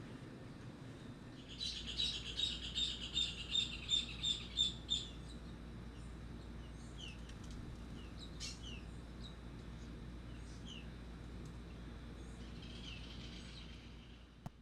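A songbird singing a rapid run of about a dozen clear, high notes at roughly three a second, followed by scattered short down-slurred call notes. A steady low background rumble runs underneath, and everything fades out at the end.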